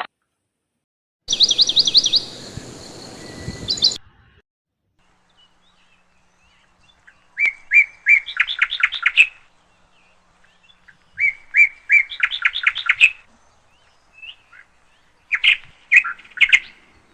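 Songbird singing: a fast trill about a second in over a noisy background, then the same short phrase three times about four seconds apart, a few opening notes followed by a quick run of notes.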